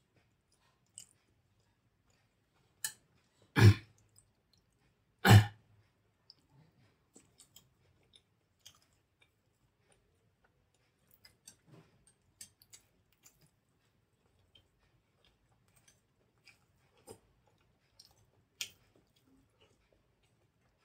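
Close-miked eating of soft idli with sambar: wet chewing and small mouth clicks, with two loud short smacking thumps about three and a half and five seconds in.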